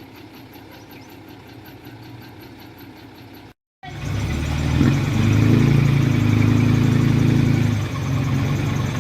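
Heavy diesel engine of earthmoving machinery running. For the first few seconds it is faint and even. After a brief cut to silence it is much louder, holding a steady low pitch under load for about three seconds, then eases slightly near the end.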